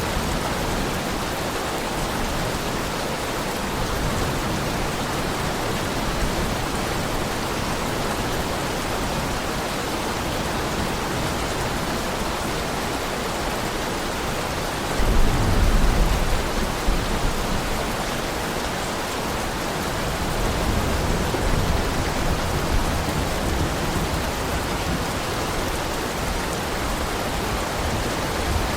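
Heavy rain falling steadily, an even hiss. About halfway through, a low rumble swells and fades over a couple of seconds.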